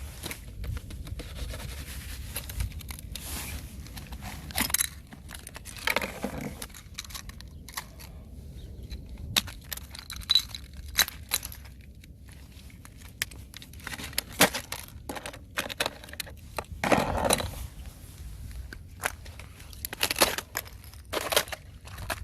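Thin fresh ice crackling and crunching as it is stepped on and broken, with sharp clicks and cracks at irregular intervals and a few longer crunches.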